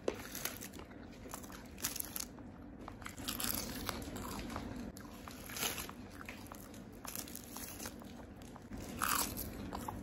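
Close-miked chewing of McDonald's Ayam Gulai crispy fried chicken: wet mouth sounds and small clicks, with a few louder bites and crunches scattered through.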